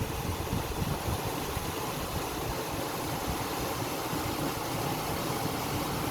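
Steady, unbroken rush of a monsoon-swollen mountain river.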